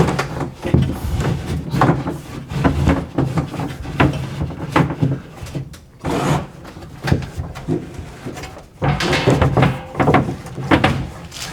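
Irregular knocks, clunks and scraping from hands-on work against wooden framing, as PEX tubing is handled and pushed through drilled holes.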